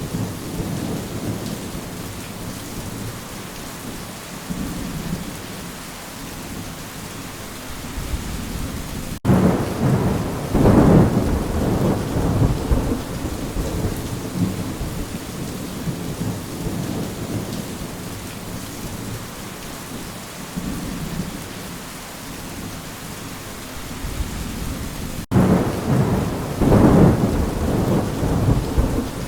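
Steady rain with rolling thunder. Two louder, deep rumbles of thunder swell up, one about a third of the way in and one near the end, each lasting a few seconds.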